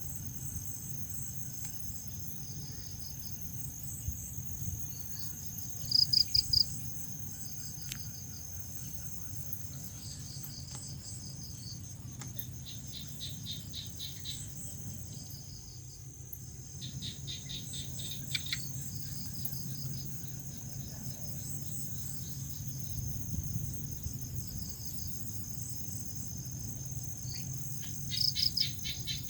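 Crickets chirping: a continuous high trill with pulsed chirp trains over it. A nearer cricket gives loud bursts of rapid chirps about six seconds in and again near the end, over a low steady hum.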